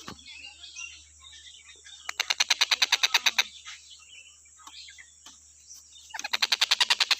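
Tengkek buto, a kingfisher, calling. Soft scattered chirps are broken by fast rattling trills of sharp repeated notes, about a dozen a second: one just over a second long about two seconds in, and another starting about six seconds in that keeps going.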